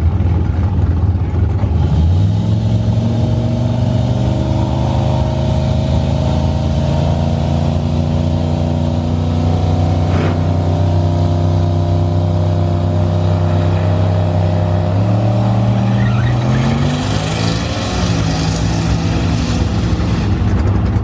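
Car engine running steadily. Its pitch steps up about two seconds in, holds, and climbs again near the end, with a hiss of noise over it late on.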